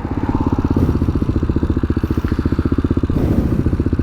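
Tao Motor TBR7 dual-sport motorcycle's single-cylinder engine running with an even, rapid firing beat, getting a little louder in the first second.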